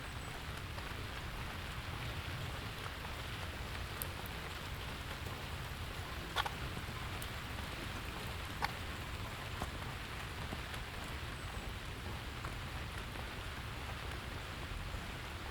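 Steady rain falling, a continuous hiss of drops with a few sharper single drop hits standing out, the loudest about six seconds in.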